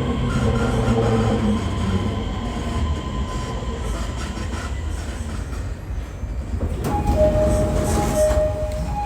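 Interior of a Joban Line electric train slowing for a station: steady running rumble, with the motor tones fading out in the first two seconds. A steady high squeal from the wheels and brakes starts about seven seconds in as the train comes to a stop.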